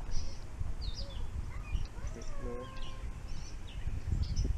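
Small birds chirping repeatedly in short high notes over a steady low rumble on the microphone.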